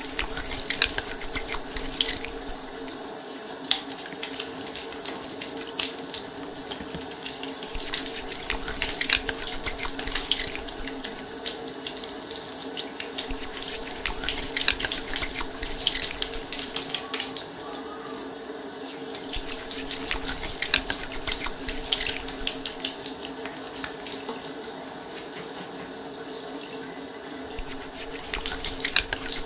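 Shower water running and spattering, with irregular splashes throughout, as shampoo is rinsed out of hair, over a steady low hum.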